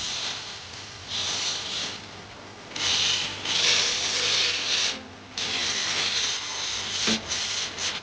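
Steel blade scraped against an abrasive in three long passes of one to two and a half seconds each, the sound of the forged blade being ground or filed toward its finished edge.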